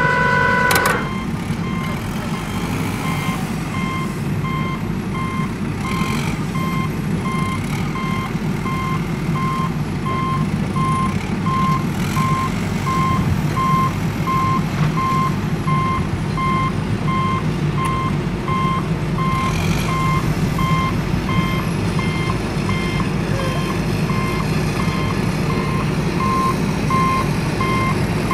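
A truck's reversing alarm beeping at a steady, even rate over the low rumble of a running engine. A short held tone sounds in the first second before the beeping starts.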